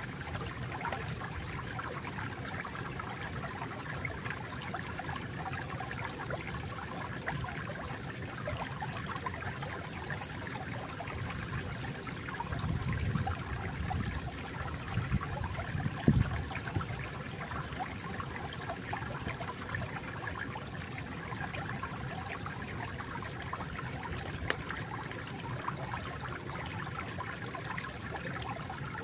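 Stream water trickling and flowing steadily. A louder low rumble swells briefly about halfway through.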